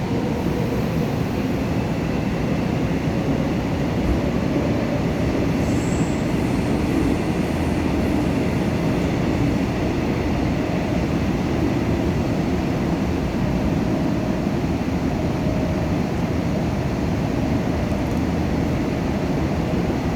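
New Woojin-built Busan Metro Line 1 subway train running between stations, heard from inside the car: a steady rumble of wheels on rail with a faint whine above it.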